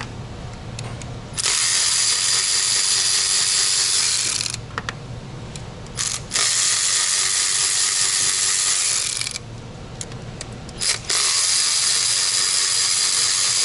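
Cordless drill driving a T30 Torx bit, backing out the bolts of a VW crankcase vent valve housing: three runs of about three seconds each, with a few small clicks between them.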